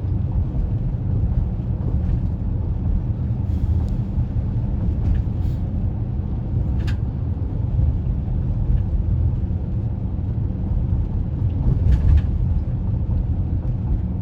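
Steady low rumble of a car driving on a rain-wet road, heard from inside the cabin, with a few faint ticks scattered through it.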